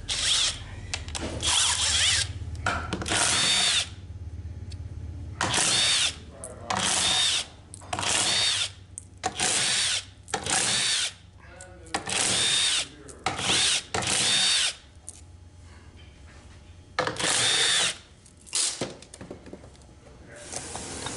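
Power driver run in about a dozen short bursts, each under a second with a high whine, spinning bolts out of an automatic transmission's valve body.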